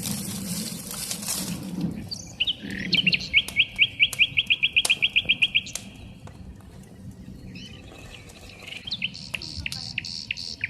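A songbird singing: a trill of quick repeated notes, about six a second, for some three seconds, then another short phrase of notes near the end. It opens with about two seconds of a hissing noise, with scattered clicks throughout.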